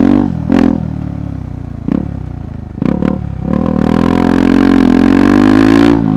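KTM 390 Adventure Rally's single-cylinder engine, with three or four short throttle blips over low revs, then from about three and a half seconds in a steady pull with the revs slowly climbing, which eases off near the end.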